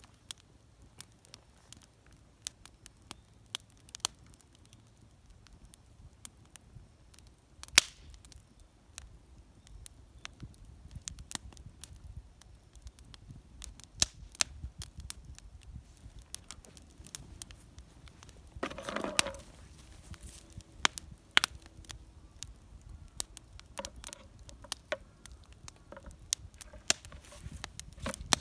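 Wood fire crackling and popping in a small homemade metal fire stand: irregular sharp pops, a few much louder than the rest, with a short rustling burst about two-thirds of the way through.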